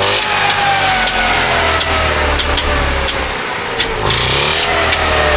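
Trabant 601's two-stroke two-cylinder engine running, its revs sagging slowly and then picking up again about four seconds in, with irregular sharp clicks through it.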